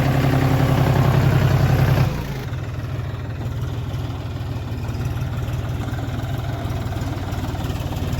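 John Deere tractor's diesel engine running; about two seconds in the sound drops abruptly to a quieter, steady run.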